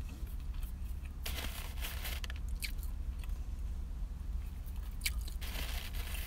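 Close-up chewing of a toasted ham and cheese toastie, with two stretches of crunching on the crisp crust, about a second in and again near the end. A steady low hum runs underneath.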